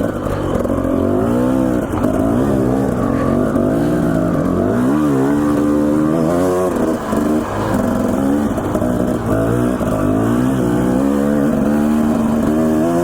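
Dirt bike engine revving up and down over and over as the throttle is worked, its pitch rising and falling with each twist of the throttle.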